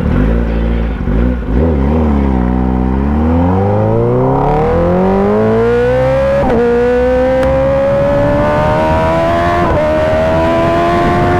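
Kawasaki ZX-10R sport bike's 1000 cc inline-four engine under way. The revs dip, then climb steadily under acceleration, broken by two quick upshifts.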